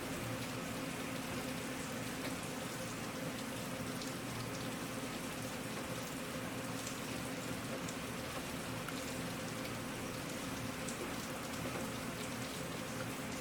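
Steady rain falling, with a continuous hiss and scattered small drop ticks.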